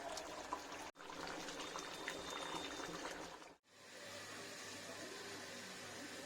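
A steady rush of water, cut off sharply twice, about one second and three and a half seconds in.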